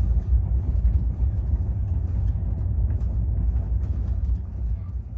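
Passenger train running, heard from inside the coach at an open window: a steady low rumble of wheels on the track with occasional faint clicks, fading out near the end.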